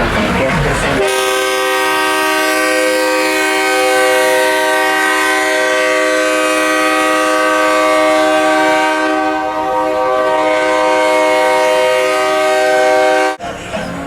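Multi-tone train-style air horn, likely on a show truck, blown as one long steady chord for about twelve seconds, then cut off suddenly.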